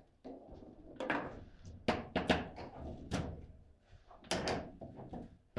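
Table football in play: irregular hard knocks and clacks as the ball is struck by the rod-mounted players and bounces off the table walls, with a quick cluster of sharp hits about two seconds in and again past four seconds.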